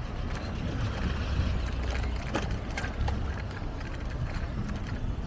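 Steady low rumble of riding a bicycle through city traffic, with wind on the microphone and a few sharp clicks and rattles from the bike.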